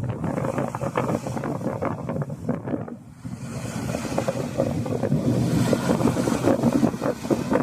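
Strong wind buffeting the microphone: a rough, gusty rumble full of crackles, easing briefly about three seconds in before picking up again.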